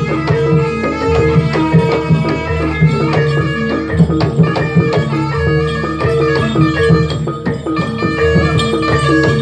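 Javanese jaranan (kuda lumping) ensemble music: hand drums beat a busy rhythm while pitched percussion repeats a steady, pulsing pattern of notes.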